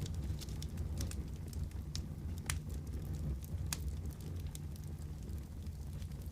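Wood fire crackling: a steady low rumble of flames with irregular sharp pops and snaps, a couple of louder pops in the middle.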